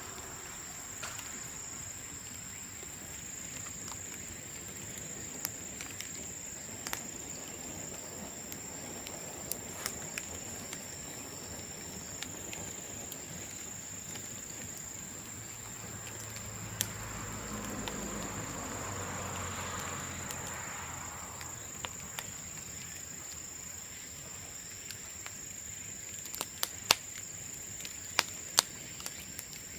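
Bamboo bonfire crackling with scattered sharp pops, several loud ones close together near the end, over a steady high insect trill. A soft low rumble swells and fades in the middle.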